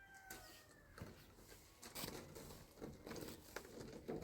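Near quiet with a few faint scattered clicks and taps. The end of a rooster's crow trails off in the first half second.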